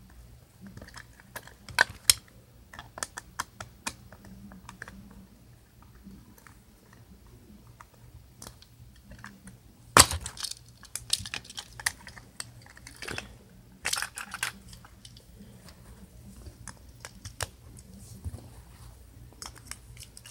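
Scattered clicks and taps of a plastic Trackmaster toy train being handled, with one sharper knock about halfway through.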